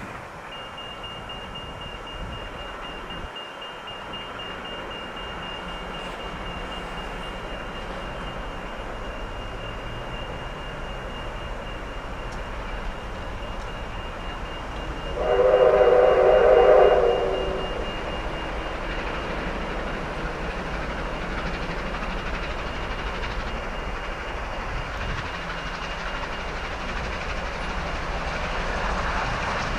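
Steam train running with a steady rumble; about halfway through, a whistle blows a chord for about two seconds.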